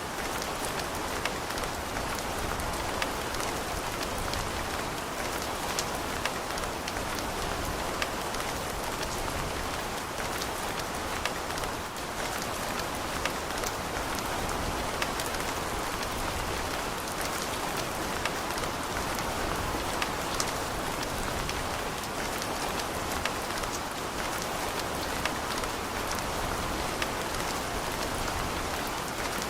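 Steady rain falling on a surface, an even hiss with individual drops ticking sharply through it.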